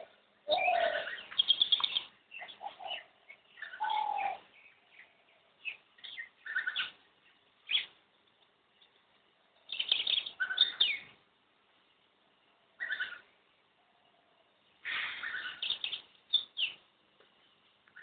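Wild birds calling in short bursts of calls, about eight of them with quiet gaps of a second or two between.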